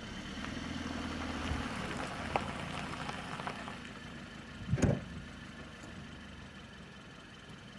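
Vehicle engine and road noise from inside the cab while driving, a steady hum that eases off in the second half. A brief louder sound cuts in about five seconds in.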